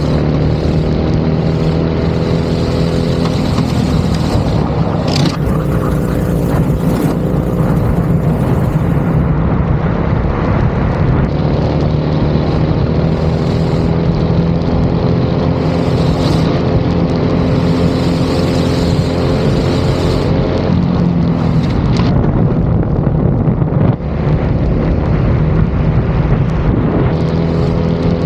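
Go-kart engine running at racing speed, its pitch climbing slowly as it accelerates and dropping off as it slows, over and over.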